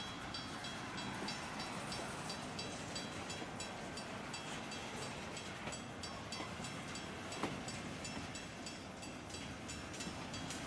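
Double-stack intermodal freight cars rolling steadily past, a continuous rumble of steel wheels on rail, with one sharp clank about seven seconds in.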